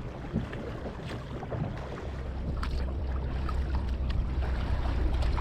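Wind rumbling on the microphone, growing stronger about two seconds in, over light splashes and drips of water from kayak paddling.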